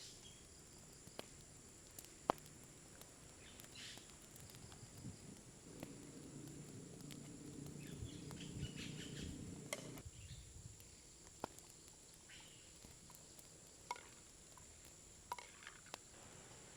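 Quiet woodland ambience: birds chirping now and then over a steady high insect drone, with scattered sharp clicks and a few seconds of low rustling midway.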